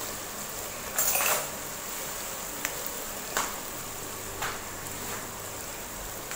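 Tomato-and-spice masala sizzling gently in oil in an aluminium pot, with three short knocks of a utensil against the pot.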